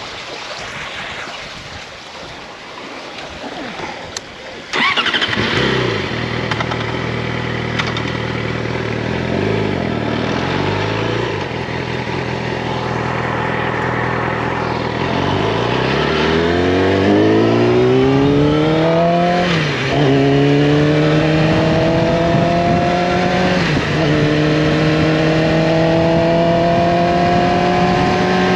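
Yamaha R6 inline-four with an Akrapovic slip-on exhaust. The engine comes in suddenly about five seconds in and idles with a couple of short rev blips. It then pulls away, the pitch rising steadily through the gears with two upshifts, each a brief dip before it climbs again.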